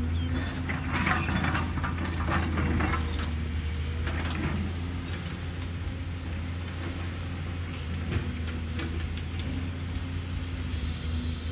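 Cat excavator working: the diesel engine drones steadily under clattering and rattling of metal, heaviest in the first few seconds and again about four seconds in.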